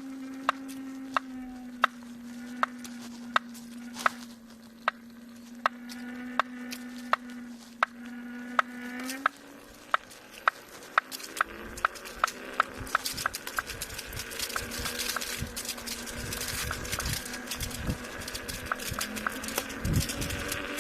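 Kingsong S22 electric unicycle's new hub motor running with a sharp knock that repeats about once or twice a second over a steady motor hum; about nine seconds in the hum shifts in pitch and the knocks come faster as the wheel speeds up. The knock is a fault noise in the new motor.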